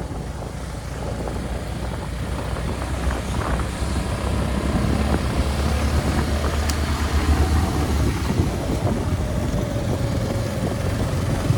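Road vehicle running under way, a low engine rumble with wind noise on the microphone, getting somewhat louder about four seconds in.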